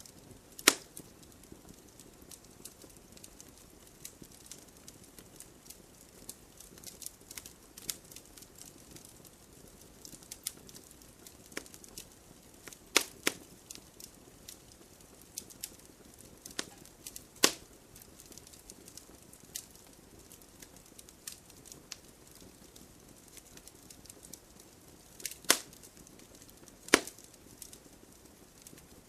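Wood campfire crackling: scattered small crackles over a faint hiss, with five sharp, louder pops spread irregularly through, two of them close together near the end.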